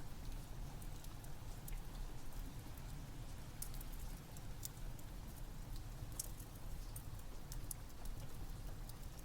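Rain and a crackling wood fire: a steady rain hiss over a low rumble, with scattered sharp crackles and pops throughout.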